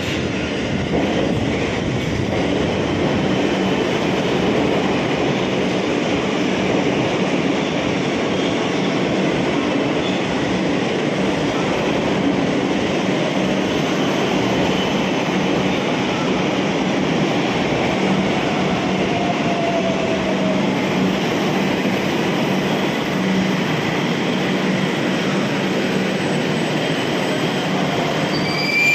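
Kolkata Metro train running on its rails: a steady, loud rumble of wheels and motors that holds for the whole stretch.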